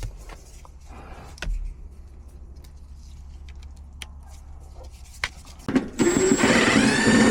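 A vehicle's engine running with a low steady hum, then a loud noisy rush about six seconds in.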